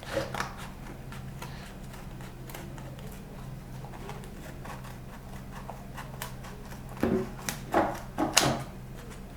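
A cardboard carton being cut to size by hand: scattered small clicks and scrapes, with a few louder ones about seven to eight seconds in.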